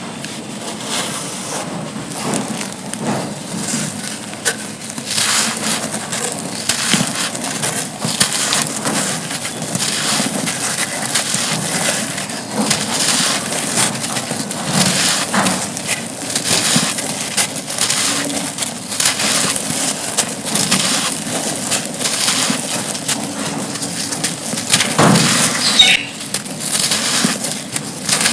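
Dry, gritty clumps crushed and crumbled by hand: continuous crunching and crackling, with a louder crunch about 25 seconds in.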